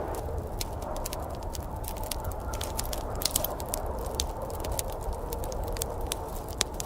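Wood fire crackling in a fireplace: many sharp, irregular pops and snaps over a steady low rumble and hiss.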